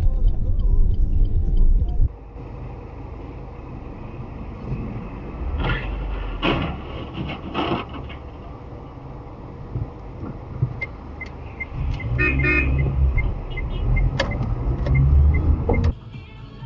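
Road traffic heard from a car: engine and road rumble, loud for the first two seconds, then quieter. A car horn sounds briefly about twelve seconds in, and regular high pips come about twice a second through the second half.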